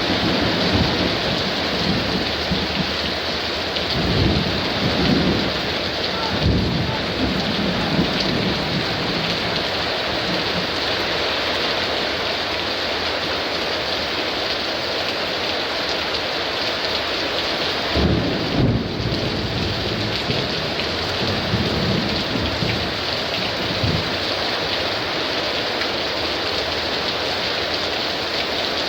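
Heavy downpour hissing steadily, with thunder rumbling low several times: around a few seconds in, again about two-thirds of the way through, and more softly just after.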